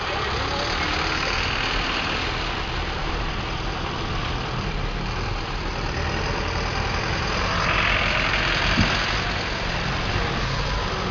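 City buses driving past on a wet, muddy road: steady diesel engine rumble with tyre hiss that swells twice, most strongly as a bus passes close near the end.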